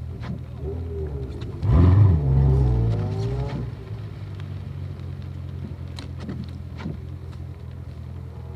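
Car engine idling steadily while another car passes close by about two seconds in: a loud engine note that rises and then slides down in pitch as it goes past, fading by about four seconds. The idle carries on afterwards with a few light clicks.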